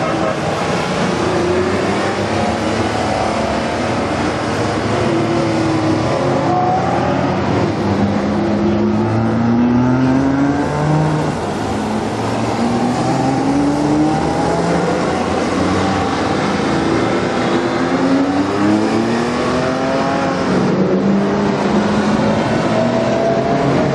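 A steady stream of Porsche sports cars accelerating past one after another, each engine note rising in pitch as it goes by, overlapping with the next car.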